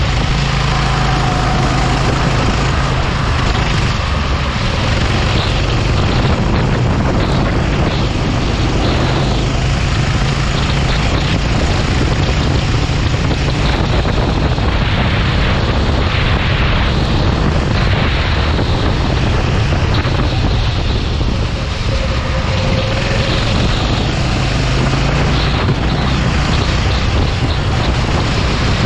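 Kart engine running at racing speed, its pitch rising and falling slightly as it goes through the corners, under a steady rush of wind on the microphone.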